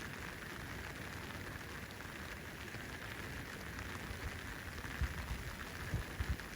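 Steady hiss of heavy rain falling in a summer rainstorm, with a few short low thumps near the end.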